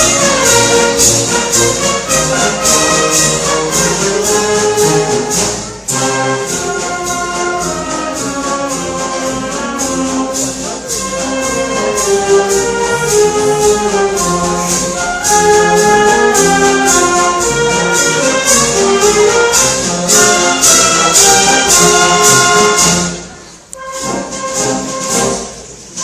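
Brass band playing a Holy Week processional march: trumpets and trombones carry the melody over a steady drum beat. The music drops away briefly near the end and comes back in.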